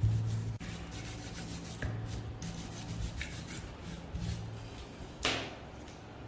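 Repeated abrasive rubbing strokes on rusted metal, scrubbing or sanding the rust off, each stroke lasting about a second. A short hissing burst comes about five seconds in.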